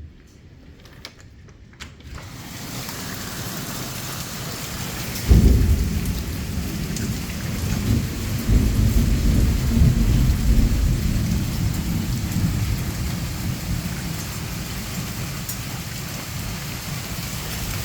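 Heavy rain on surfaces, building up over the first couple of seconds, then a sudden loud thunderclap about five seconds in that rolls on as rumbling thunder for several seconds over the steady downpour.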